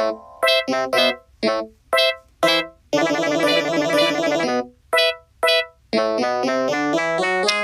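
Keyboard music in an electric-piano sound: short, separated notes and chords, a held chord about three seconds in, then a steady run of notes near the end.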